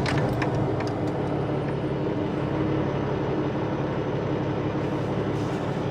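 Cummins diesel engine of a semi truck idling steadily just after start-up.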